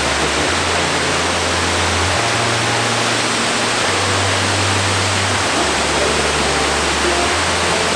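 Fukuroda Falls, a tall multi-tier waterfall, making a steady, loud rush of falling water.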